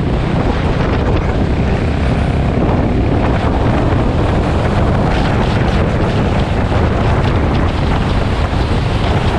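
Motorcycle under way, its engine running steadily under heavy wind noise buffeting the microphone. The bike is most likely a Honda XBR single-cylinder four-stroke, ridden with a two-stroke carb fitted.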